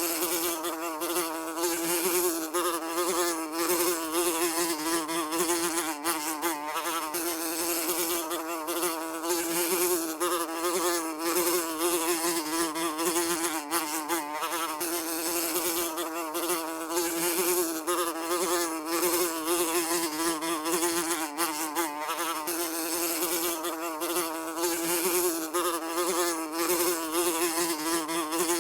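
Housefly buzzing continuously, a steady drone whose pitch wavers slightly, with faint ticks scattered through it.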